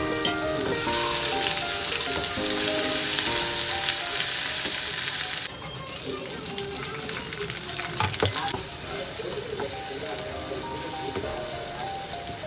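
Food frying in hot oil in a pan: a loud, steady sizzle that drops suddenly to a softer sizzle about five seconds in, with a short knock near the middle.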